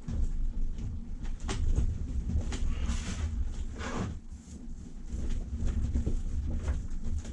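Paint roller worked over the boat's cockpit wall plates: two longer swishing strokes about three and four seconds in, with a few sharp knocks, over a steady low rumble.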